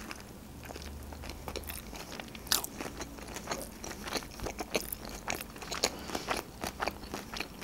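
A person biting into and chewing a fresh rice-paper spring roll with shrimp and carrot, making a steady run of small wet clicks and crunches; one louder click comes about two and a half seconds in.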